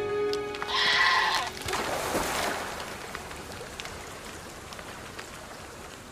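A single bleating call from a wild goat-like animal, about a second in. It is followed by a short rushing, scraping burst of noise that trails off into a fading hiss.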